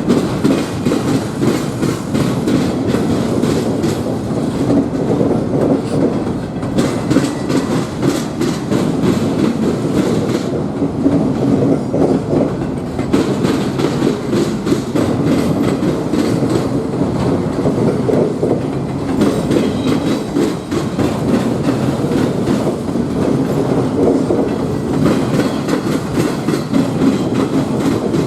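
A train's rail cars rolling steadily past, wheels clacking over the rail joints in a continuous rumble, with a faint wheel squeal at times.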